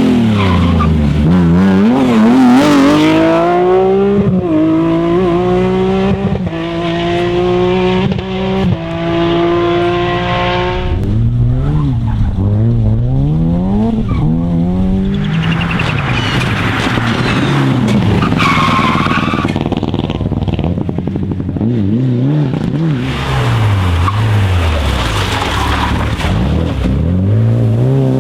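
Rally cars at full racing speed, their engines revving up and dropping again and again through gear changes as they pass, with a brief tyre squeal in the second half.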